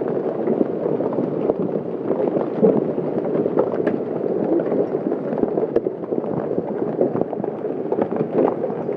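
Large hailstones and heavy rain pounding down, a dense steady clatter with many sharp individual cracks of stones striking the ground, plants and objects.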